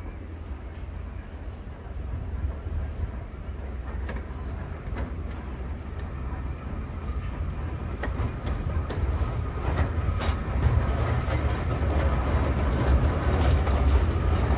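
Railway train running on the track: a low rumble that grows steadily louder, with scattered sharp clicks of wheels on rail.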